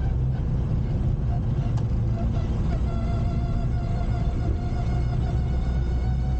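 Classic Mini's engine running with a steady low drone. A thin whine comes in about three seconds in and starts to climb in pitch near the end.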